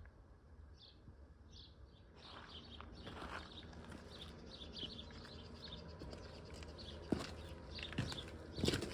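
A small bird chirping repeatedly in short high notes, over a rising outdoor background, with a few sharp thumps near the end.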